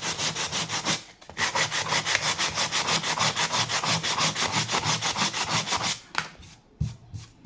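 Sandpaper rubbed by hand back and forth over a repaired wooden door jamb to smooth it, in quick even strokes about six a second, with a short pause about a second in. The sanding stops about six seconds in, followed by a few light knocks.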